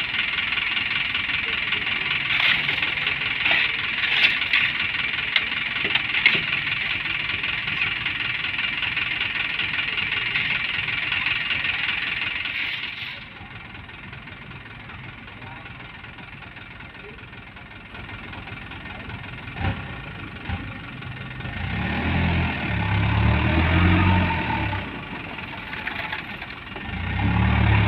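Diesel dump truck engine running. The sound drops suddenly about halfway through, then a heavier low engine rumble builds again near the end.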